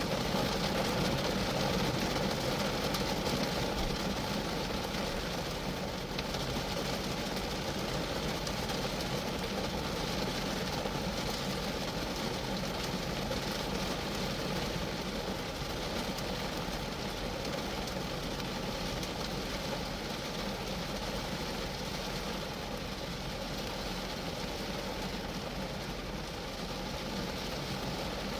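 Steady rain falling on a Geo Metro's roof and body, a dense, even patter of drops.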